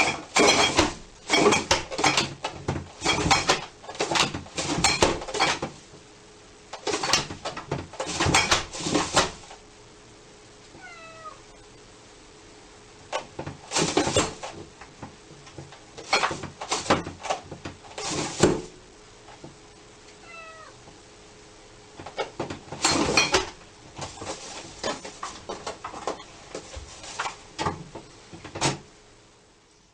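A cat meowing faintly twice, amid loud clusters of rapid knocks and taps from an unseen source. A faint steady hum runs underneath.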